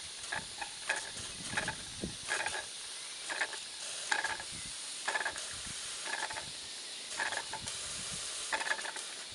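Vertical model steam engine, a Stuart No. 4 type with a 1.5-inch bore and 1.25-inch stroke, running slowly on steam with its drain cocks open. There is a steady hiss of steam, with short, irregular spitting chuffs about once a second. The spitting comes from condensed water still in the cylinder.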